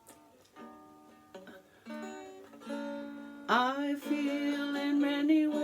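Acoustic guitar played softly, a few plucked notes dying away, then strummed chords with a voice sliding up into a held note about three and a half seconds in.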